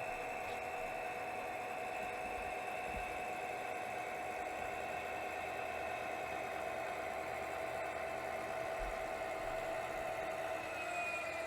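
Sound-equipped HO scale GP40-2 diesel locomotive model playing its diesel engine sound, a steady hum with a whine on top that dips slightly in pitch near the end.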